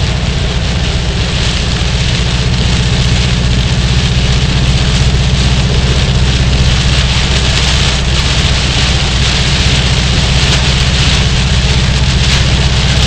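A car driving through heavy hurricane rain: a steady engine and road hum underneath an even hiss of rain on the car and tyres on the wet road.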